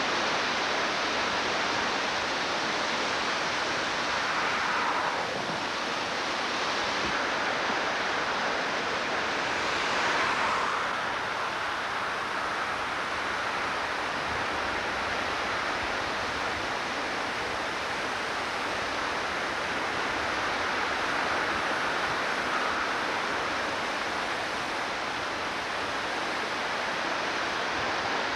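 A creek in flood, its high water rushing steadily, swelling slightly about 5 and 10 seconds in.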